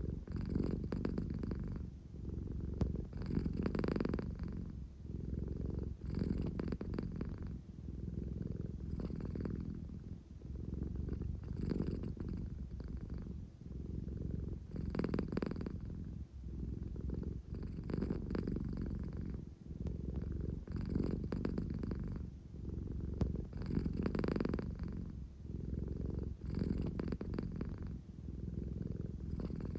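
An American Shorthair cat purring close up: a steady low rumble that swells and eases about every three seconds with her breathing. It is the purr of a sleepy cat wanting affection.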